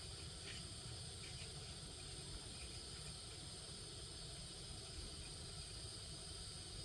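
Faint, steady outdoor ambience: a constant high-pitched insect drone over a low rumble.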